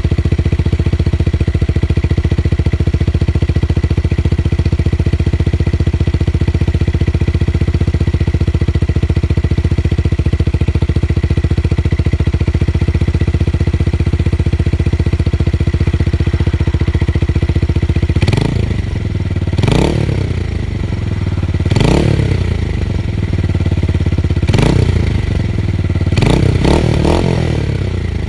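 Tuned motorcycle engine with a bassy exhaust note, idling steadily, then blipped through a series of short throttle revs in the last ten seconds, each rising and dropping back to idle, with a quick cluster near the end.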